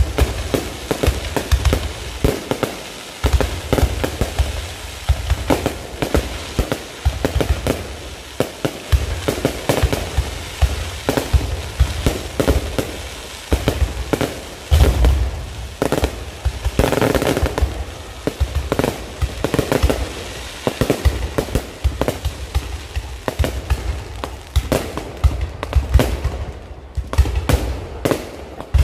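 Low-altitude fireworks display: a rapid, continuous barrage of bangs and crackling bursts, many with deep booms.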